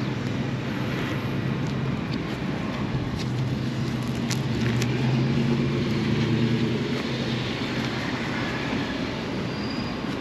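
Motorcycle engine running steadily under way, with road and traffic noise around it.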